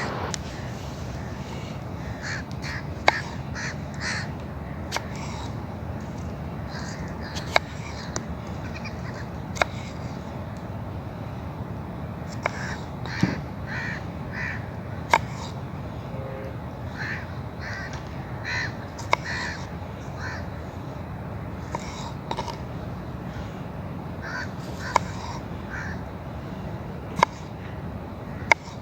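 Birds calling repeatedly in short bursts of crow-like cawing over a steady low background, with occasional single sharp clicks or knocks scattered through.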